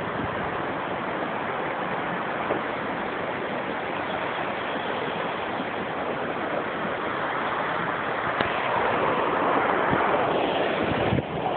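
Steady rush of a waterfall, a little louder in the last few seconds.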